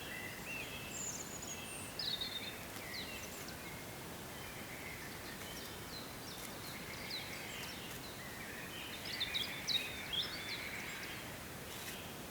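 Several small birds singing and chirping, with short high calls throughout and a busier run of calls about nine to ten seconds in, over a steady outdoor background hiss.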